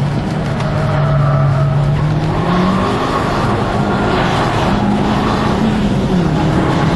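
Car engine under hard driving, heard from inside the cabin: the engine note holds, climbs with the revs and drops back twice, as at gear changes, over a steady road and wind rumble.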